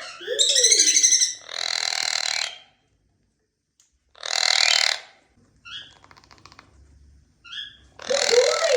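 Indian ringneck parrot squawking: three harsh calls of about a second each, with a curved call near the start and a few short chirps between.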